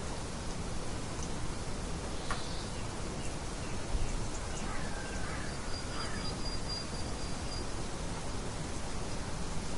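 Steady hiss of light wind, with a few faint bird chirps and short gliding calls about halfway through and a thin high held note just after them.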